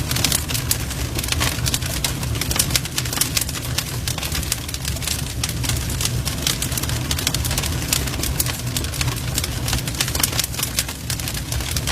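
Burning wood fire crackling, with a dense, steady stream of small pops and snaps over a low rumble of the flames.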